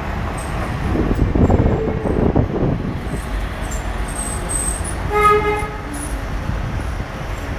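Docklands Light Railway train pulling into the station, its wheels rumbling on the track, loudest about a second or two in. A single short horn toot sounds about five seconds in.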